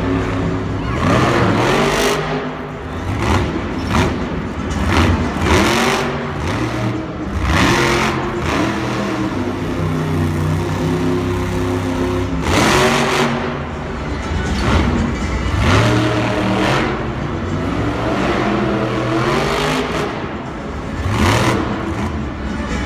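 Monster truck engines revving hard and dropping back, over and over, with repeated surges of noise.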